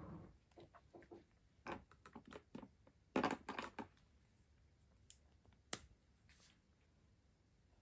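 Stationery and its packaging handled up close: a run of small clicks, taps and brief plastic-and-paper rustles, loudest a little past three seconds in, with a single sharp click near six seconds.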